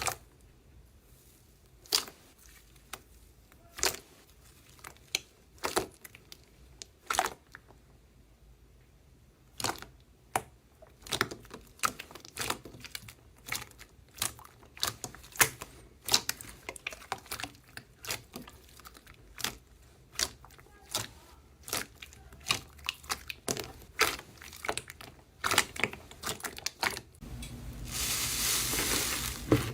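Slime being handled close to the microphone: sharp sticky pops and clicks, a few seconds apart at first, then coming faster and irregularly. Near the end they turn into a steady dense crinkling.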